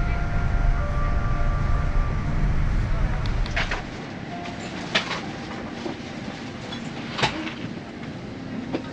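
Steady low cabin rumble of a parked airliner that drops away sharply about four seconds in, followed by a few sharp clinks and clicks spaced a second or two apart.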